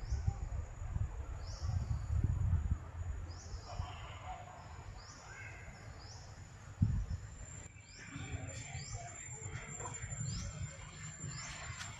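A bird calling outdoors, repeating a short rising chirp every second or two over a low rumble. A little past the middle the background shifts and the chirps become denser, with scattered clicks.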